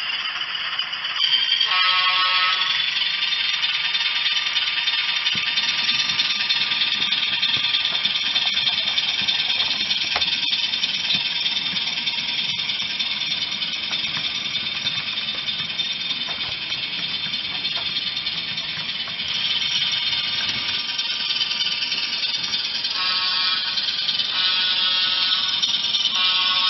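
HO scale ALCO RS3 model diesel locomotive running past on the layout track, a steady high whir and rattle, with pitched tones about two seconds in and again near the end.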